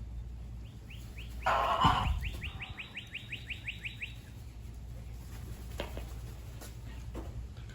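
A bird's fast trill of repeated chirps, about seven a second, lasting about three seconds, with a loud harsh burst near its start, over a steady low rumble.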